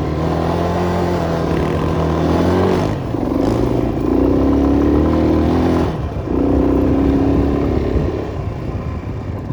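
Enduro motorcycle engine revving hard in surges as it is ridden through mud, the throttle dropping off briefly about three and six seconds in before picking up again.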